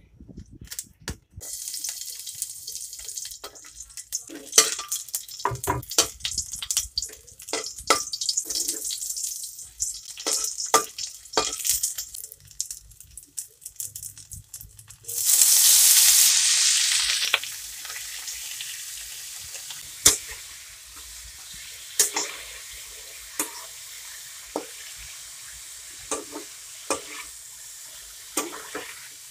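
Oil frying in a metal wok, crackling and popping, with a metal spatula clicking against the pan. About halfway through comes a loud burst of sizzling as chopped roast pork goes into the hot oil. It settles into a steady frying hiss, with a spatula stroke about once a second.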